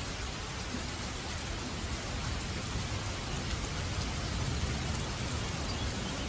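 Steady rain falling on surfaces, a dense even patter, with a low rumble underneath that swells a little from about two seconds in.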